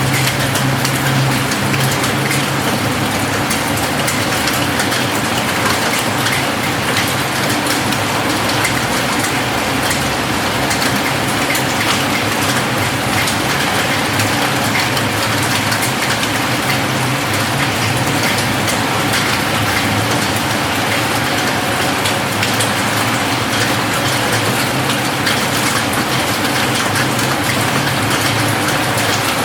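Steady rain falling on a roof: a dense, even patter of drops, with a low steady rumble underneath.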